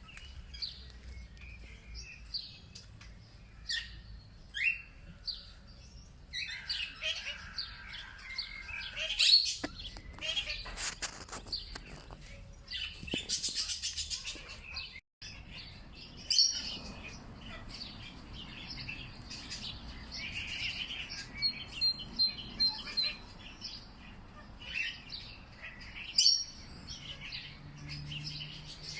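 Several songbirds chirping and calling in a mix of short high chirps and quick trills, with brief abrupt dropouts where the recording is spliced.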